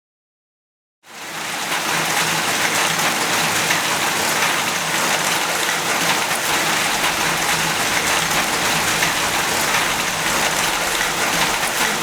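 Rain falling steadily; it fades in quickly about a second in.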